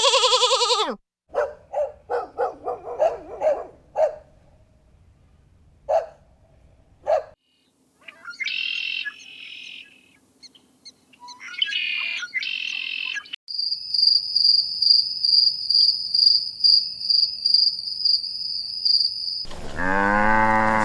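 A string of separate animal calls. A sheep's bleat ends about a second in, followed by a run of short pitched calls and then high bird chirps. A steady, evenly pulsed high trill follows, and a cow begins to moo near the end.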